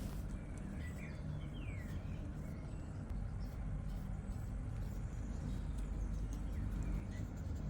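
Steady low background rumble, with a few faint high chirps falling in pitch about one to two seconds in.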